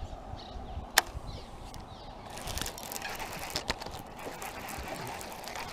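Steady rush of a strong waterfall, with one sharp click about a second in and a few lighter clicks later.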